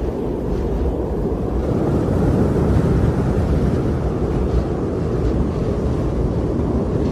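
Winter wind blowing steadily in a snowstorm, a low rushing noise with most of its weight deep down and little high end.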